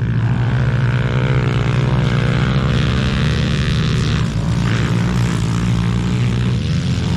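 Pit bike engines running and revving as the bikes race, with pitch rising and falling as they go through the gears and corners.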